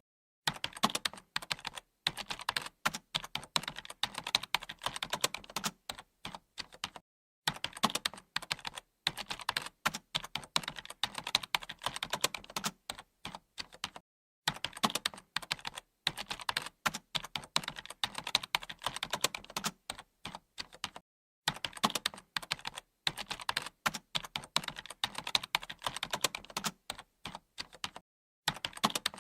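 Computer keyboard being typed on in quick, continuous runs of key clicks, with a short pause about every seven seconds.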